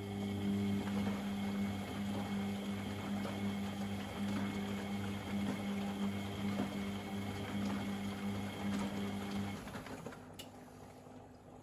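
A pump in a Privileg Sensation 952 S top-loading washing machine running with a steady hum and water gurgling through it, then switching off abruptly about nine and a half seconds in.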